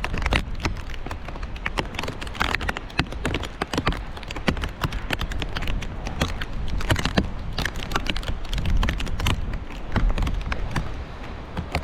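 Wind rumbling on the microphone, with a constant run of irregular sharp clicks and knocks on top.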